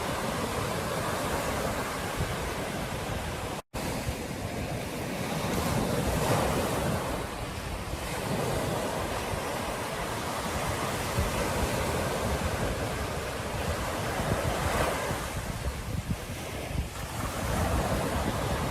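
Ocean surf washing onto a beach, the waves swelling and easing every few seconds, with wind rumbling on the microphone. The sound cuts out for an instant about four seconds in.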